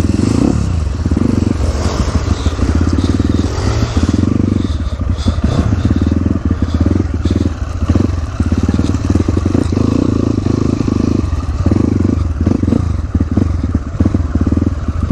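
Dirt bike engine running under way, the throttle opening and closing in repeated surges of roughly a second each.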